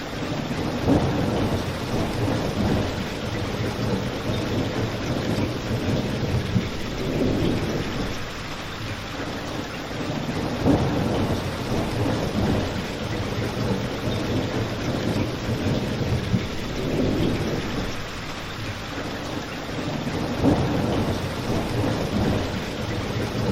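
Steady rain falling, with a crackling fire, in a looped ambience mix. Louder low swells come every few seconds, with a few short sharp pops among them.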